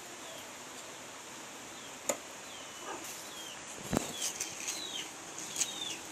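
Short falling chirps, typical of a small bird, repeating about twice a second, over a steady hiss. A few sharp clicks and knocks, the loudest about four seconds in.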